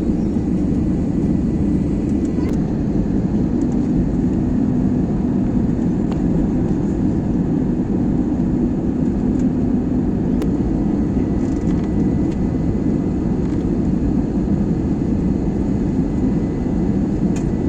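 Airliner noise heard from inside the passenger cabin during landing: a steady low roar of engines and airflow that keeps the same level throughout, with no distinct thump or change.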